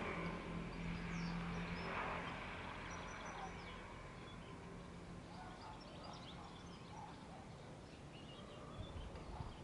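Faint outdoor background with scattered distant birds chirping, and a low steady hum that fades out about halfway through.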